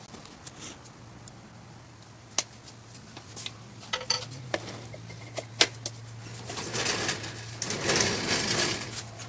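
Scattered sharp metal clicks and knocks, and two stretches of scraping, as pistons are handled and fitted with a ring compressor during assembly of a 383 small-block Chevy bottom end. A low hum runs underneath.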